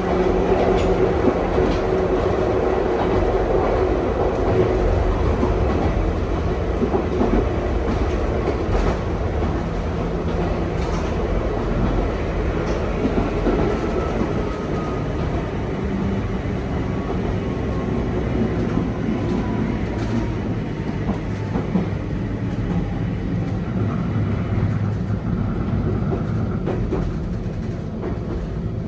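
Cabin running noise of a Nankai 2200-series train under way: a steady rumble of wheels on rail, with occasional rail-joint clacks. A faint whine falls slowly in pitch through the middle.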